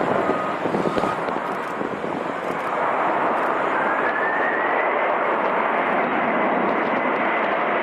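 Airliner engines running with a loud rushing noise that grows louder about three seconds in. A thin whine rises in pitch and then holds steady.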